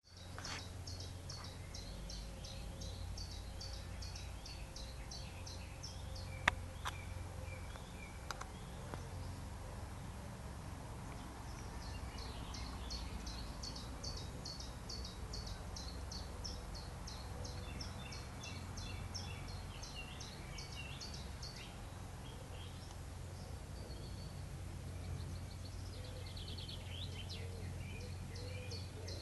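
Outdoor birdsong: a songbird repeating short high notes, about three or four a second, in long runs with pauses between them, while other birds chirp softly over a steady low rumble. A sharp click comes about six seconds in, and a smaller one about two seconds later.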